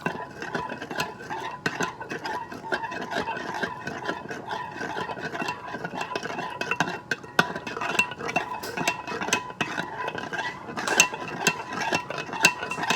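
A spoon stirring Jell-O mix into water in a cup, with a steady run of small clinks and scrapes against the sides.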